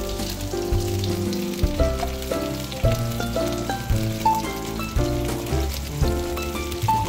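Chicken wings sizzling as they pan-fry in oil in a nonstick wok. Background music of short notes that change about every half second over a steady bass line plays alongside.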